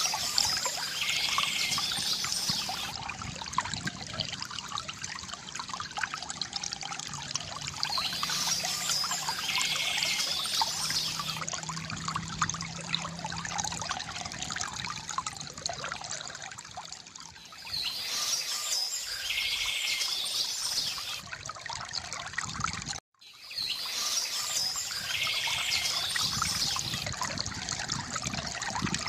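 Stream water flowing steadily, with a songbird singing four short bursts of song several seconds apart. The sound cuts out completely for a split second about three-quarters of the way through.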